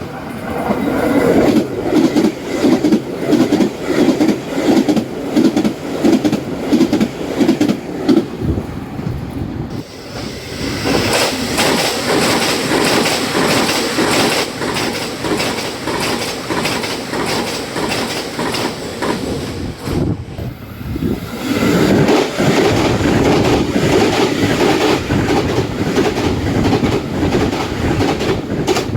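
Taiwan Railways trains passing at high speed over jointed track, the wheels clacking rhythmically over the fishplate rail joints. There are three passes in a row, with a break about ten seconds in and another about twenty-one seconds in.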